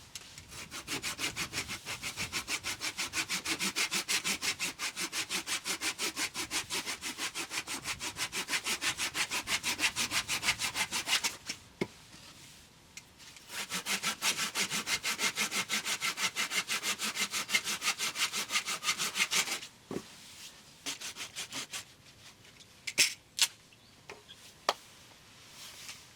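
Hand saw cutting wood in quick, even rasping strokes, about five a second, in two long spells with a short pause between them, followed by a few sharp clicks near the end.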